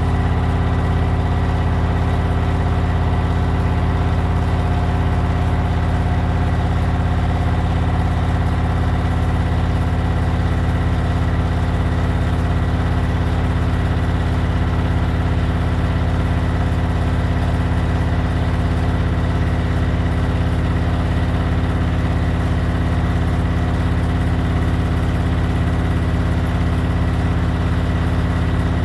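Servis Gem M310 washing machine spinning a bedding load at a steady speed, a constant hum with a thin high whine. The drum is running out of balance, which on Servis machines sounds really loud.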